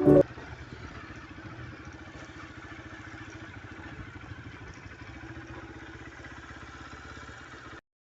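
Motorcycle engine idling steadily with a rapid, even pulse. It follows music that cuts off just after the start, and it stops abruptly near the end.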